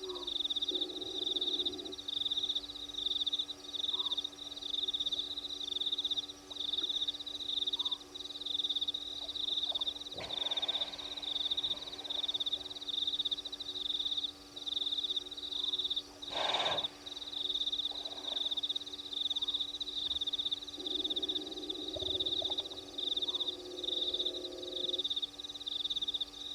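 Night chorus at a waterhole: a high-pitched pulsed chirping that repeats about once a second without a break, with a brief rustle partway through.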